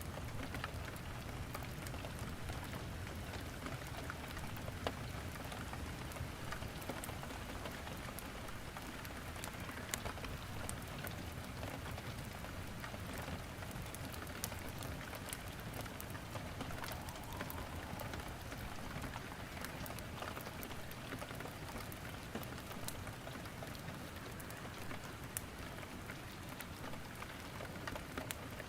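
Steady rain falling, with scattered sharp crackles and pops from wood burning in a fireplace.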